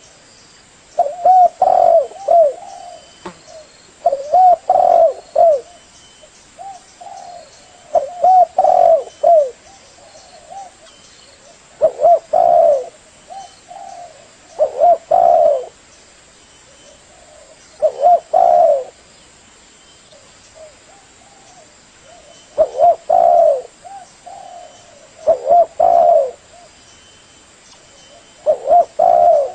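Spotted dove cooing: a phrase of several short coos, repeated about every three to four seconds, nine times.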